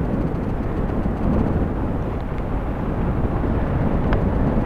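Strong wind rushing over the microphone of a paraglider pilot in flight: a steady, loud, low wind noise.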